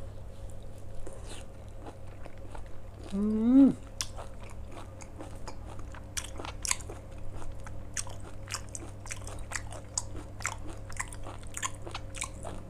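Close-up mouth sounds of a person chewing seared beef and greens: many small wet clicks and crunches with no steady rhythm. A short hummed 'mm' rises and falls about three seconds in.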